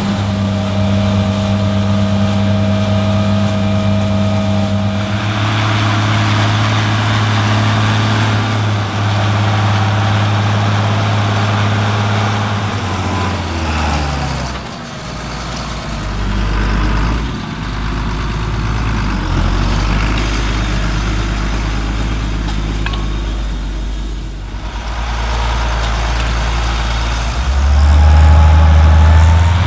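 Heavy farm-machinery engines, tractors or harvesters, running steadily. The engine note changes suddenly a few times, and about halfway through it drops lower as the revs fall.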